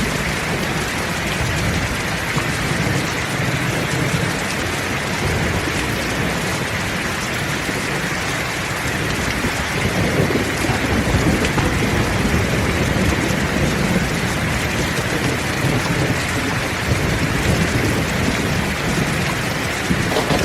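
Heavy rain falling steadily in a thunderstorm, with low rolling thunder swelling from about halfway through.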